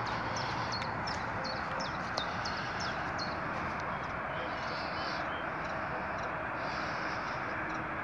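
Outdoor ambience: a steady rushing background noise, with a small bird giving a quick series of short, high, falling chirps through the first few seconds, then fainter high calls later on.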